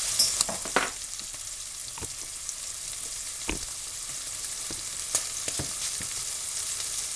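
Food sizzling steadily in a hot pan, with a few light sharp knocks scattered through it.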